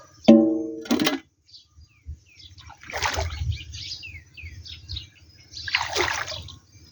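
Water splashing in short bursts about three seconds apart, with small birds chirping in quick falling notes between them. A brief pitched call sounds at the very start.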